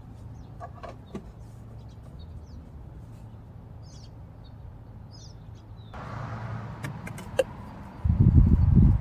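New motor oil being poured into the engine's oil filler, a steady rushing pour that starts about six seconds in, over faint bird chirps. Near the end a loud low rumble lasts about a second and a half.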